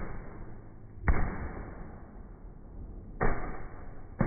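Fireworks exploding overhead: sharp bangs about a second in, a little after three seconds and right at the end, each trailing off over about a second.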